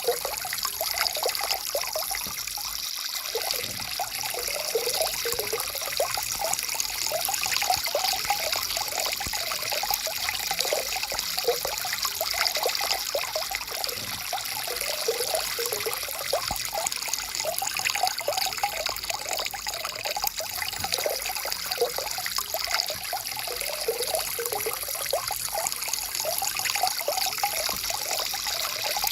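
Small forest stream trickling and splashing steadily over rocks, a continuous babble of many small splashes.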